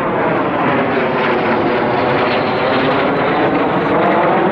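Aircraft flying past, a loud steady engine roar whose tone sweeps up and back down as it passes overhead.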